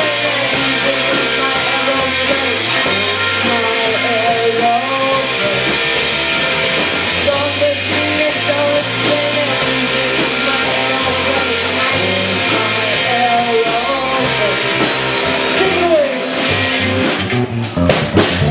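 Rock band playing live, with a sung melody over electric guitar and a steady bass line; drum strokes come through more sharply near the end.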